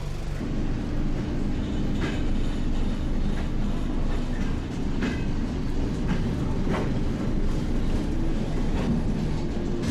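Soviet-era elektrichka electric commuter train running, heard from inside the carriage: a steady low rumble with a few sharp clacks about 2, 5 and 7 seconds in.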